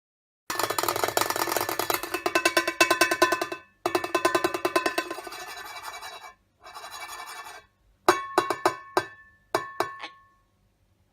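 Rapid drum-roll-like tapping on a hard object that rings, in two long runs. Then several separate knocks, each leaving a short ringing tone.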